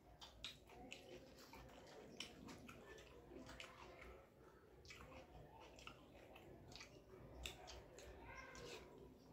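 Faint chewing with scattered soft clicks from a person eating rice and curry by hand, fingers mixing the rice on a steel plate.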